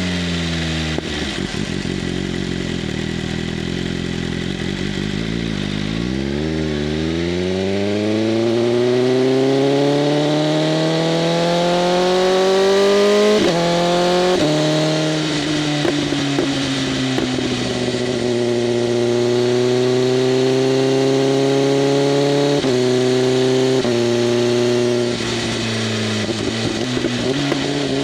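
BMW M1000RR's inline-four engine through an SC-Project CRT exhaust with its flaps open. The revs fall away and stay low for a few seconds, then climb steadily. Two quick upshifts come around the middle, then the bike holds a steady cruise, with further gear changes near the end.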